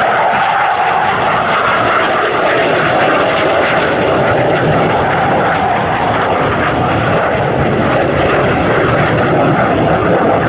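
Dassault Super Étendard jets on a display pass, their SNECMA Atar 8K-50 turbojets giving loud, steady jet noise with a hissing whine over it.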